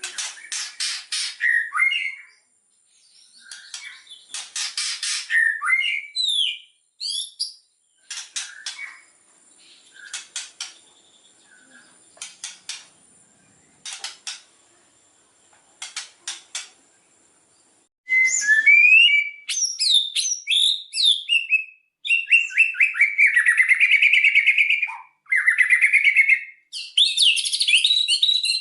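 White-rumped shama (murai batu) calling and singing: first a long stretch of dry rattling clicks in short bouts with a few brief whistles, then, about two-thirds in, a louder run of fast, varied trills and whistles that continues without a break.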